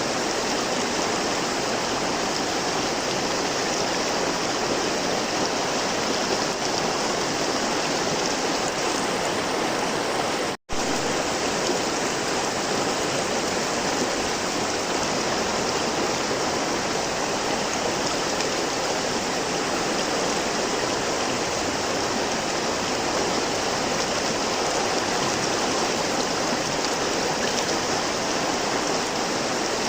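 Flowing river water rushing steadily over rocks, as a continuous even rush. About ten seconds in it cuts out for a split second, then carries on unchanged.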